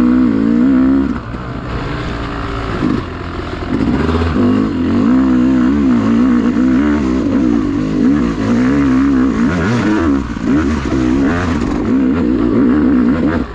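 Dirt bike engine revving hard, its pitch rising and falling constantly as the throttle is worked on slick mud. It drops back briefly about a second in and again near three seconds.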